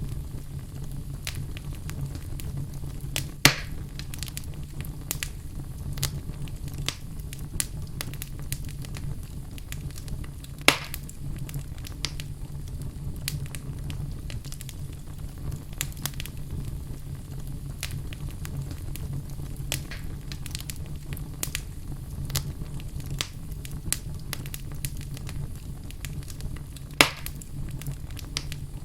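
Wood fire burning in a fireplace: a steady low rumble of flame with scattered crackles and three louder pops from the burning logs.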